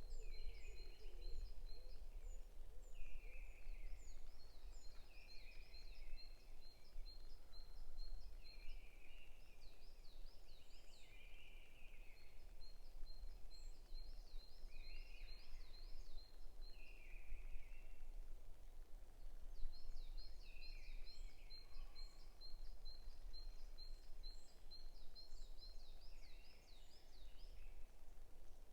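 Forest songbirds singing: one bird repeats long runs of rapid, short high notes, while another sings short phrases every second or two. A steady low rumble lies underneath.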